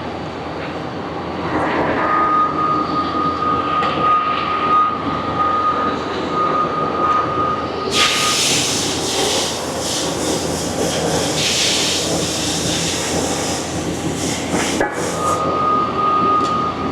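Machine shop machinery running: a steady rumble with a thin, steady whine. About eight seconds in a loud hiss sets in for some six seconds, then dies away, and the whine comes back near the end.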